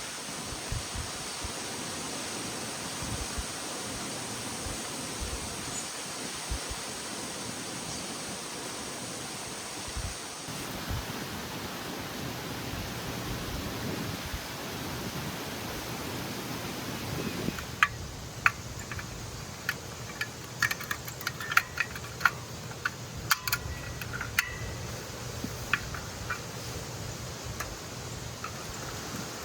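A steady rushing hiss, then from about two-thirds of the way in a quick, irregular run of light clicks and clinks as metal camping cookware is handled.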